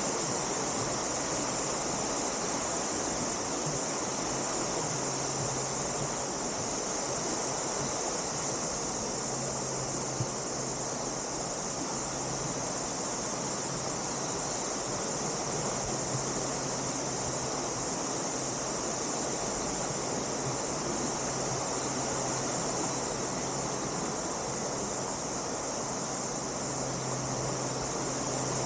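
Steady rush of a waterfall, with a constant high-pitched insect chorus over it.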